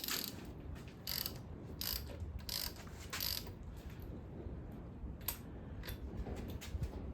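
Hand socket ratchet clicking in short rasping strokes, about five of them two-thirds of a second apart, then fainter scattered clicks, as bolts are loosened during an engine teardown.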